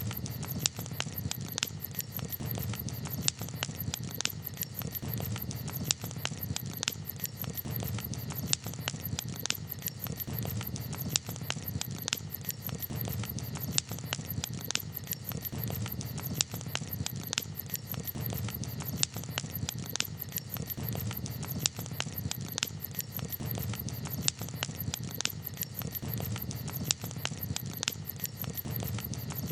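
Wood campfire crackling: irregular sharp pops and snaps, several a second, over a steady low rush of burning.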